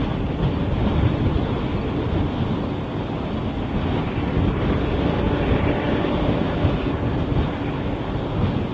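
Freight train of empty tank cars rolling past, a steady rumble mixed with wind buffeting the microphone.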